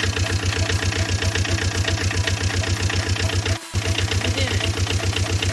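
Engine idling: a steady, even low throb at about six beats a second, dropping out for a split second about three and a half seconds in before running on unchanged.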